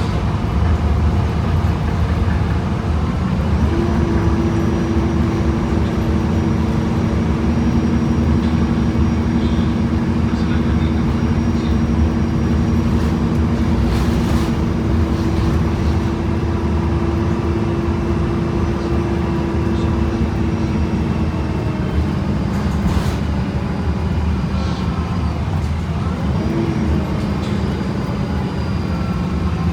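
2011 Gillig BRT bus with a Voith automatic transmission running along the road, heard from inside: a steady low drivetrain rumble with a steady whine that sets in about four seconds in and holds until about two-thirds of the way through, then eases lower. A few faint knocks and rattles come through the cabin.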